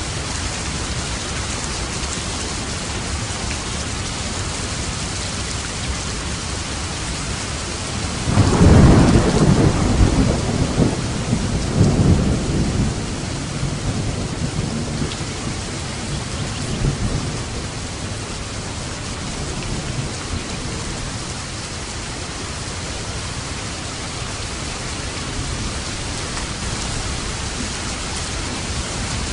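Steady heavy rain, with a roll of thunder breaking in about a third of the way through, loudest in two surges and rumbling away over several seconds.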